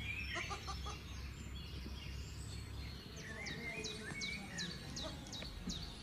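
Small bird chirping faintly: a quick run of short, high chirps, each falling in pitch, about four a second, through the second half.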